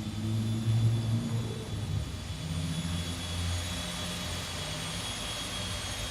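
An engine running, with a low hum and a steady high whine.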